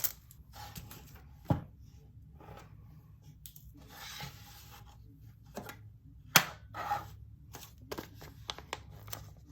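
Small plastic bags of diamond painting drills and plastic storage containers being handled: light rustling and rubbing with a few sharp clicks, the loudest about six seconds in.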